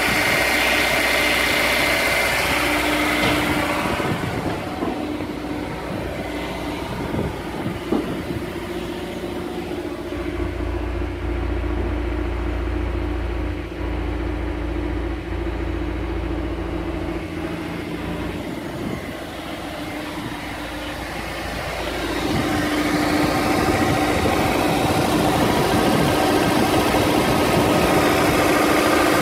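Honda S2000's four-cylinder engine idling after a cold start, which the owner suspects has a rod knock. The sound drops quieter about four seconds in and grows louder again about twenty-two seconds in.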